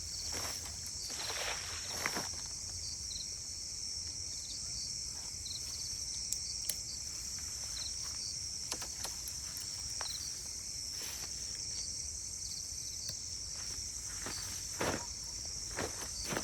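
Crickets chirping in a steady, high-pitched chorus. A few brief rustling knocks come about a second or two in and again near the end.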